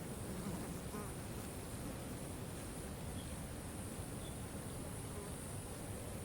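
Waterfall rushing steadily, with a constant high hiss and a few faint bird chirps.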